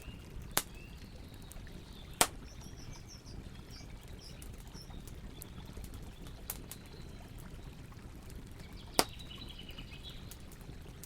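Campfire burning with a steady low crackle and rumble, broken by three sharp, loud pops from the burning wood. Faint birds chirp in the background.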